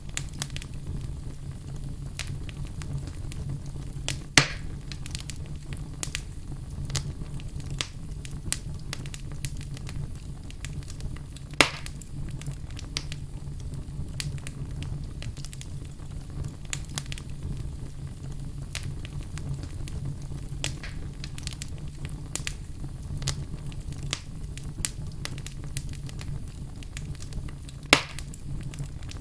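Wood fire burning in a fireplace: steady crackling over a low rumble, with three loud pops, one a few seconds in, one near the middle and one near the end.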